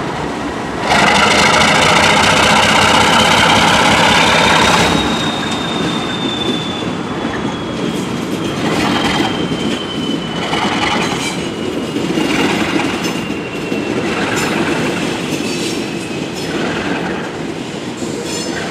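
ALCo RS32 diesel locomotive pulling a cut of covered hoppers past, loud for the first few seconds as it goes by. Then the cars roll on with a long thin wheel squeal that slowly falls in pitch, and a clack from the wheels over rail joints about every two seconds.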